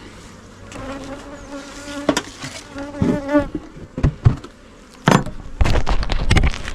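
Honey bees buzzing close by, one bee's wing hum wavering up and down in pitch for a couple of seconds. Several sharp knocks and handling bumps follow in the second half, the loudest near the end.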